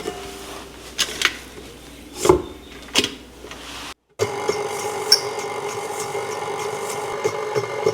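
Scraping and rubbing with a few sharp clicks of kitchen utensils, then, after a sudden cut, a steady motor-like hum.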